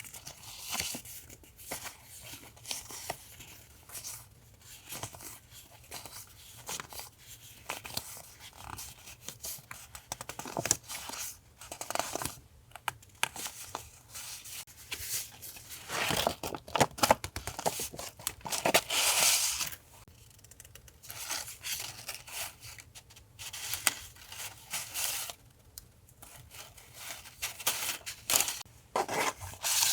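Paper being handled at a desk: a run of irregular rustles, tears and scissor cuts, with a longer, louder stretch of tearing or rubbing about two-thirds of the way through.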